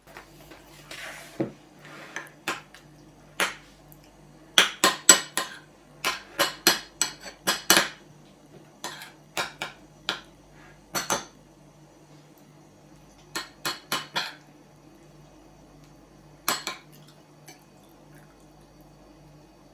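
Dishes and cutlery being handled, with sharp clinks and knocks coming in quick runs, the busiest run about five seconds in, over a steady low hum.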